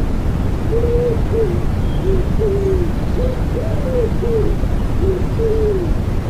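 Common wood pigeon cooing one phrase of about eight soft hooting notes over a steady noise bed.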